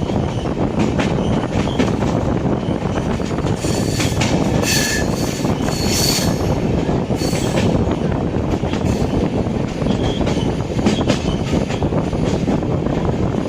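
Rajyarani Express passenger train running on the rails with a steady, loud rumble and rattle. Wheels squeal sharply several times between about four and seven seconds in.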